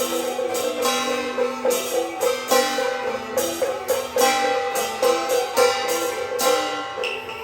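Taiwanese Beiguan ensemble music: held melody notes over frequent loud percussion strikes. The strikes stop about a second before the end.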